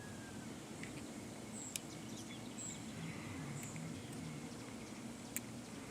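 Quiet outdoor ambience: a steady low background hum with a few short, high bird chirps and a couple of sharp clicks. No thunder is heard.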